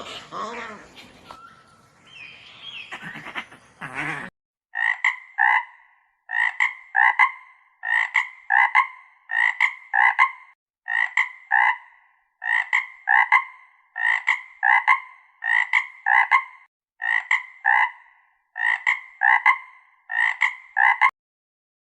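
A string of short animal calls in quick twos and threes, about one group a second, each note with a clear, steady pitch. They follow a few seconds of a different sound that slides in pitch.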